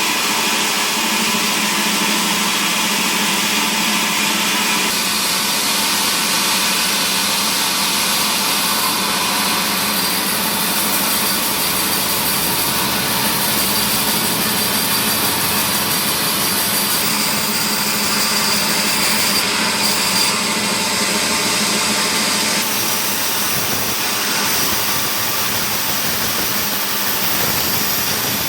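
Sawmill saw machinery running steadily while cutting mahogany timber: a loud, continuous machine noise with a high whine. The tone shifts about five seconds in and again around twenty-two seconds.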